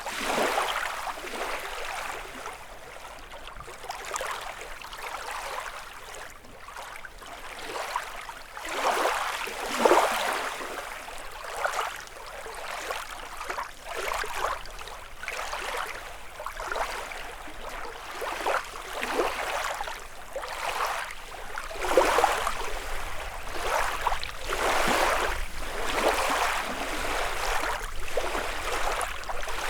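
Small lake waves washing onto the shore, an irregular splash every second or two, with larger ones about ten seconds in and from about twenty-two seconds in.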